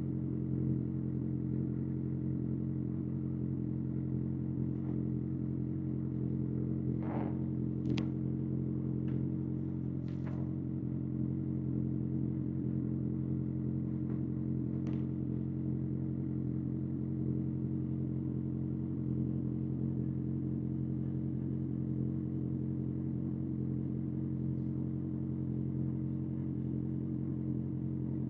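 Kawasaki ZX-6R inline-four engine running through an SC-Project SC-1R exhaust, holding a steady speed with no revving, its pitch unchanged throughout. A few brief clicks sound over it in the first half.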